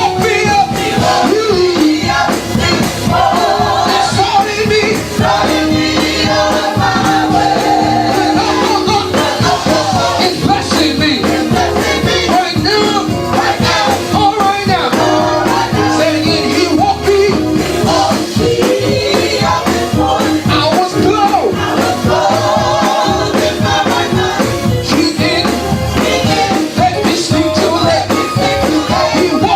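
Live gospel praise music: a band playing with singing and a shaker or tambourine keeping the beat.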